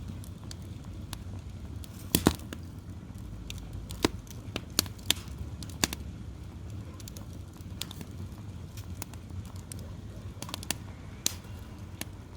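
Wood fire crackling, with irregular sharp pops, the loudest about two seconds in, over a low steady rumble.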